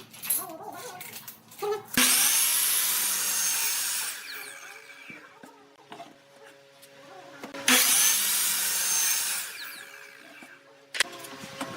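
A tool working wood in two long passes: each begins abruptly with a loud hissing, scraping sound and fades away over a few seconds.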